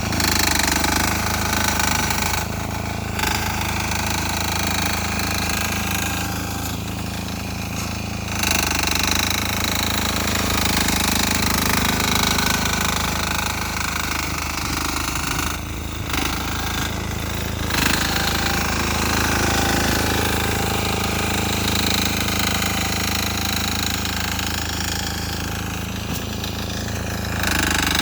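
A 6 hp single-cylinder air-cooled diesel engine on a Sears Suburban garden tractor, running steadily with a rapid, hammering knock. The sound thins out briefly a few times.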